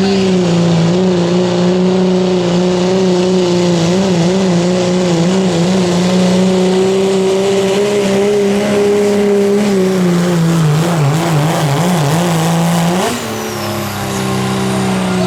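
Turbocharged diesel pickup truck engine at full throttle pulling a sled, holding a steady high note. The note wavers and sags about ten seconds in, then jumps up sharply near the end.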